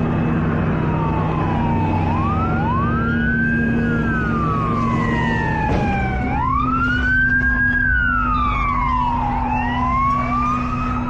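Emergency vehicle sirens wailing, each cycle rising quickly in pitch and then falling slowly, with two sirens overlapping out of step. An engine runs steadily underneath.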